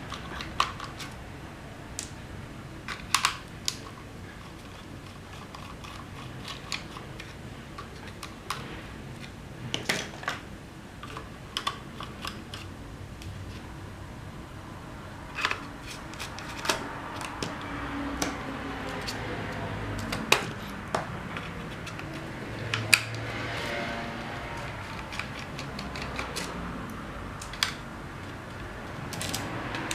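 Irregular sharp clicks and taps of small plastic parts and hand tools being handled during a drone repair, some coming in quick clusters, over a faint steady background noise.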